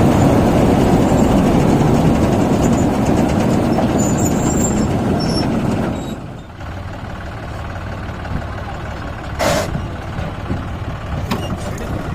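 Heavy diesel engine of a farm machine running loud, then dropping to a lower, steadier rumble about six seconds in. A short hiss sounds once, a few seconds before the end.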